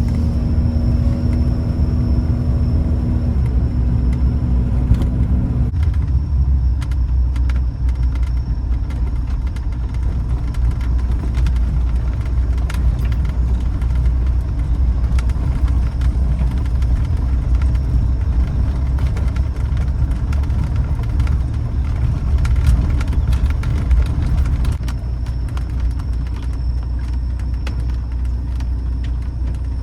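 Suzuki Jimny JA11 on the move: steady low engine and road rumble, easing off slightly near the end.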